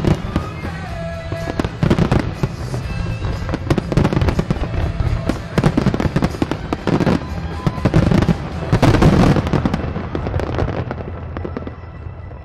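Closing barrage of aerial firework shells over the water: a dense, rapid run of bangs and bursts that comes thickest in the middle. About ten seconds in, the bangs thin out and fade.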